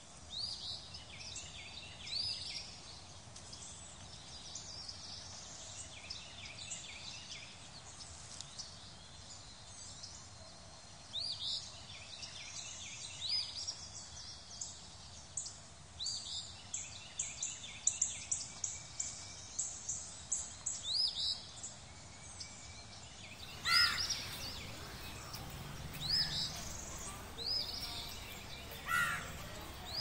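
Birds calling over a faint steady hiss: short, quickly rising chirps repeat every second or two, with a rapid run of calls near the middle. About two-thirds of the way in, louder and lower calls take over.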